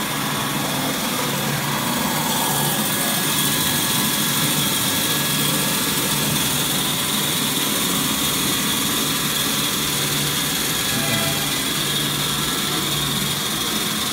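Semi-automatic band saw toilet paper roll cutting machine running steadily, with a constant high-pitched whine over a low machine hum.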